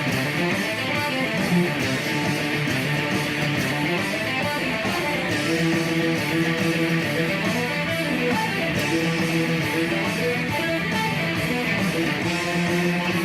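Electric guitar playing a rock lead solo, single notes stepping up and down, over a full band backing with bass and a steady beat.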